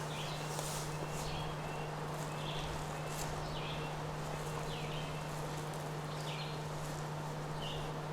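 Outdoor ambience: a bird giving short falling chirps about once a second over a steady low hum.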